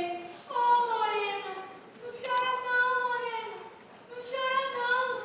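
A high voice singing long held notes without clear words, in three phrases that each slide downward in pitch.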